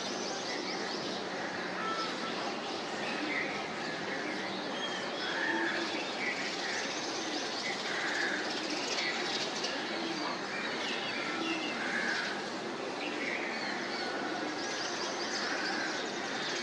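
Birds chirping now and then over a steady outdoor background hiss.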